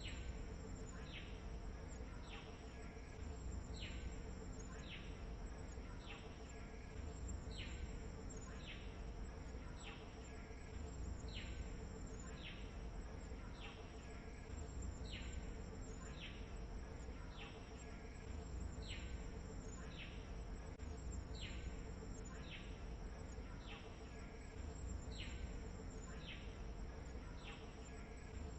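Outdoor nature ambience: a steady high-pitched insect drone, with a short call sliding down in pitch that repeats about once a second, over a low rumble.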